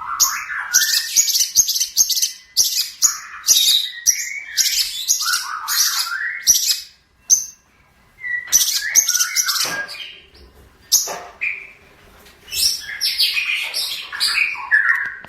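Long-tailed shrike (cendet) singing: rapid runs of sharp, high chirps and chatter in phrases a few seconds long, broken by brief pauses.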